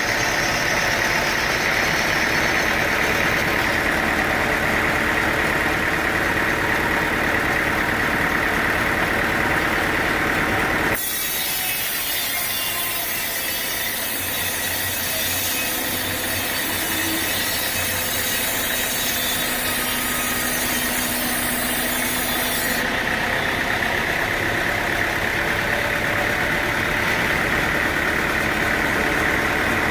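Sawmill saw cutting through a teak log, a steady mechanical noise with the machine's motor running underneath. The sound changes abruptly about a third of the way in and changes back about two thirds in.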